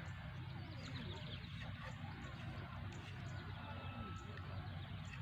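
Faint bird chirps and thin whistles, with a soft high ticking about twice a second, over a steady low hum.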